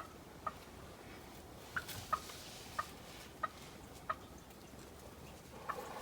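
Wild turkey clucking: a string of short, sharp single notes, roughly one every half second to second, with a longer gap near the end.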